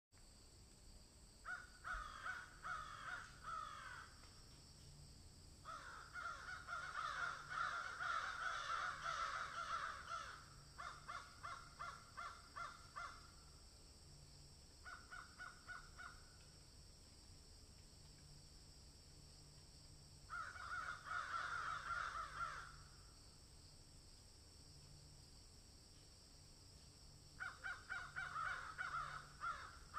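Harsh, rapidly repeated bird calls in about six separate bouts of one to four seconds each, with quiet gaps between them, over a faint steady hiss.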